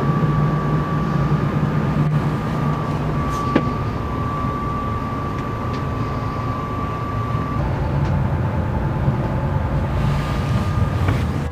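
A yacht's engine running steadily under motor: a constant low drone with a thin high whine over it that steps down slightly in pitch about three-quarters of the way through.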